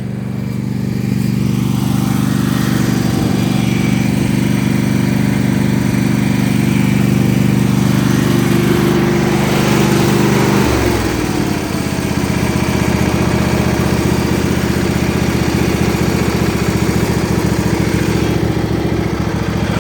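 Riding lawn mower engine running steadily, then dropping to a lower, rougher note about halfway through.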